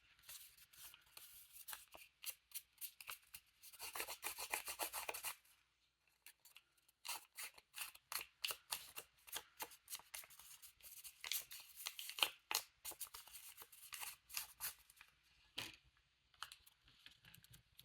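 Paper edges being distressed by hand: a series of quick, irregular scraping strokes across the edge of a paper tag, with a denser run of scraping about four seconds in.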